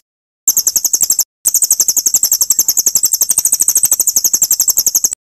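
Small songbird's rapid, high chirping trill, about ten even chirps a second, played as a looped training recording; it cuts out abruptly twice near the start and stops suddenly near the end.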